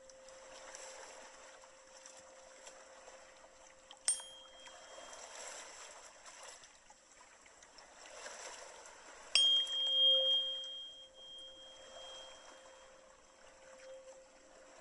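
A tuning fork rings a steady mid-pitched hum over the soft hush of running water. It is struck about four seconds in and again, harder, a little after nine seconds, and each strike adds a brief bright high ping above the hum.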